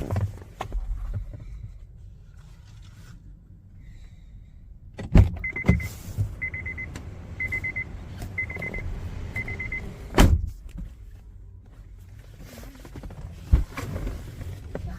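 Car noises: a low steady rumble with a few sharp knocks, and a run of five short electronic beeps of one pitch about once a second in the middle, like a car's warning chime.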